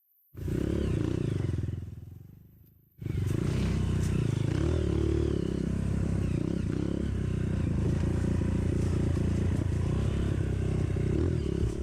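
Trail motorcycle engine running as the bike rides the trail, heard close up, with some clattering. It starts abruptly, dies away, then cuts back in about three seconds in and runs steadily.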